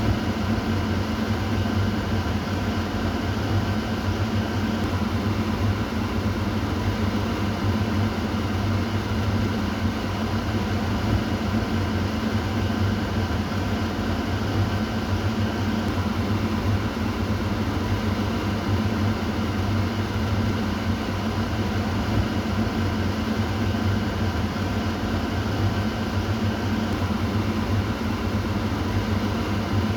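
Kitchen exhaust fan running steadily: a constant whoosh of air over a low motor hum.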